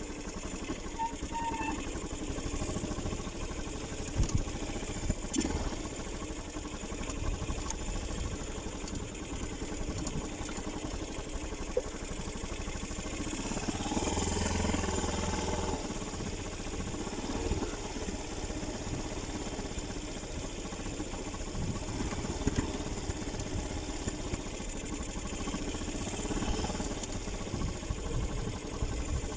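Motorcycle engine running during a ride, a steady mechanical din with a few sharp knocks and a louder stretch about halfway through.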